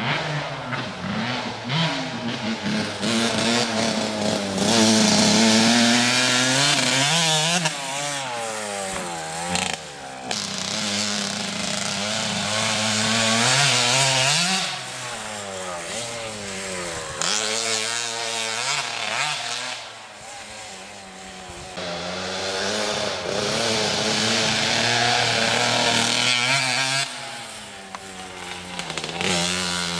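Motocross dirt bike engine revving hard and backing off again and again, its pitch climbing and falling with throttle and gear changes. It is loudest in long full-throttle stretches, with quieter dips in between.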